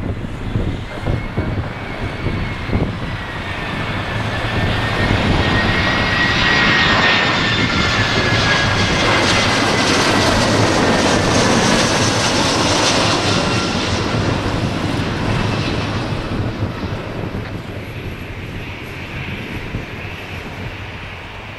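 Jet airliner's engines passing close by: the roar builds, peaks with a high whine that slides down in pitch, then fades away.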